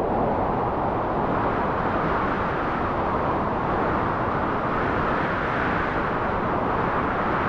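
Steady rushing wind with no other sound. It swells a little higher in pitch about five seconds in.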